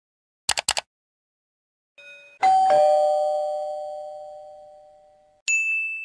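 Doorbell chime: a loud ding-dong, a higher note then a lower one, ringing out for nearly three seconds. Before it, about half a second in, comes a quick run of computer mouse clicks, and near the end a single high ding.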